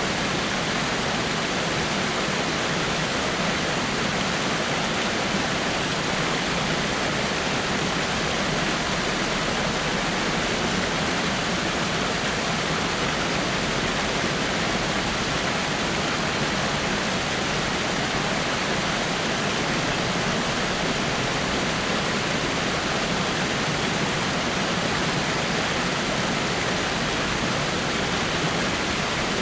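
Water spilling steadily over a small rock waterfall: an even, continuous rush of falling and splashing water.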